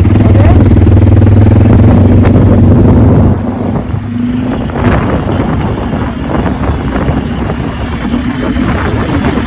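Quad bike engine running with a loud steady drone, which drops after about three seconds into a quieter, rougher running sound.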